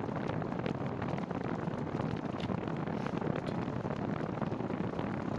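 Steady rush of wind on the microphone mixed with bicycle tyres rolling on a wet, leaf-strewn trail during a ride in the rain, with a few faint ticks.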